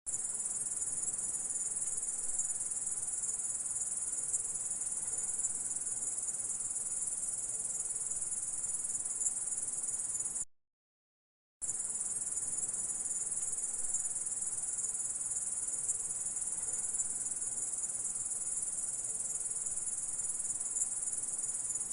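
Grasshopper stridulation: a steady, dense, high-pitched buzzing chirr. It cuts out completely for about a second near the middle, then starts again unchanged.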